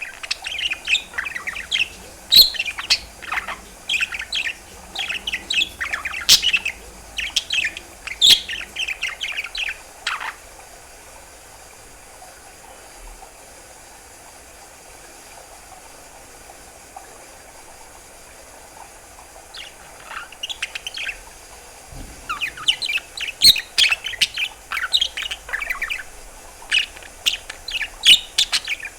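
Budgerigar chattering and warbling in rapid chirps and trills. It breaks off about ten seconds in and starts again some nine seconds later.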